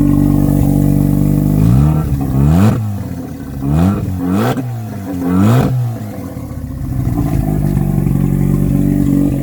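Non-turbo Mazda RX-7 FC's 13B twin-rotor engine, running with no Y-pipe or exhaust behind the pre-silencer. It idles, is blipped up four times in quick succession about two seconds in, and drops back to a steady idle.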